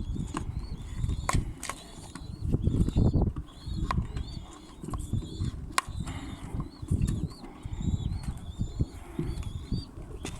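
Irregular rustling and handling noise with several sharp clicks, while small birds chirp again and again in the background, short rising-and-falling chirps.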